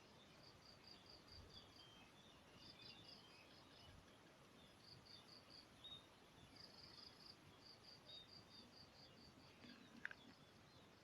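Faint insect chirping in short trains of high, evenly spaced pulses, about five a second, with a few faint bird chirps among them.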